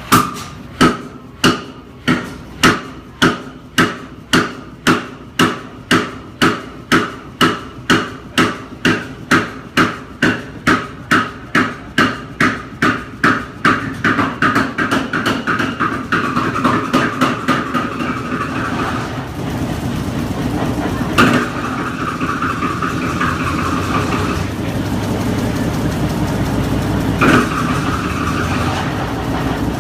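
Old Fairbanks Morse engine starting up: slow, sharp firing knocks about two a second that quicken as it gathers speed, blending into steady running about two-thirds through. Two louder single knocks stand out later on.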